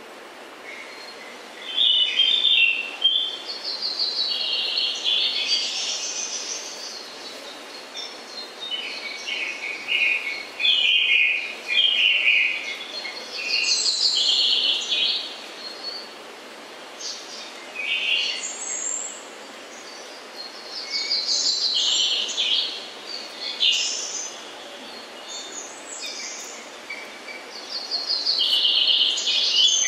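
Birds chirping and singing in short trilled bursts every second or two, over a steady hiss.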